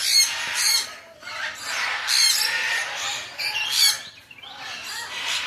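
Parakeets screeching and squawking, several harsh, high calls in quick succession with a short lull about a second in and another near the end.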